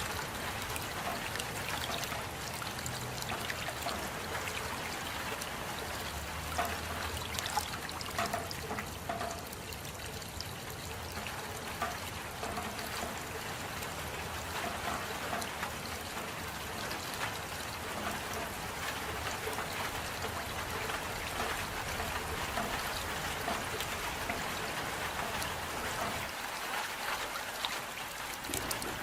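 Steady rain falling: an even hiss dotted with many small drop impacts.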